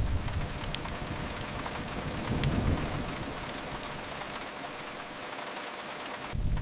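Steady rain hiss with a few sharp fireplace crackles, over a low rumble that swells about a third of the way in and then fades.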